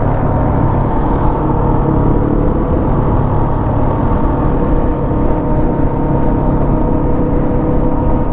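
Motorcycle engine running at a steady pace while riding, with the rush of road and wind noise over it.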